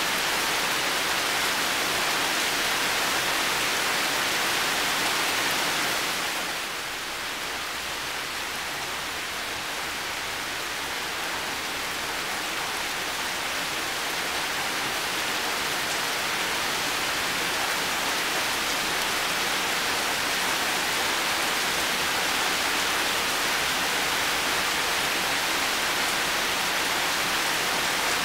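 Heavy rain falling, a steady even hiss. About six seconds in it softens a little, then slowly builds back up.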